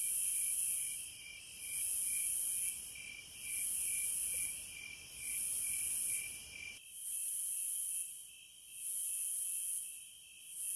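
Cicadas buzzing in waves, swelling and fading about every one and a half to two seconds, with a steadier high whine underneath that stops abruptly about two-thirds of the way through.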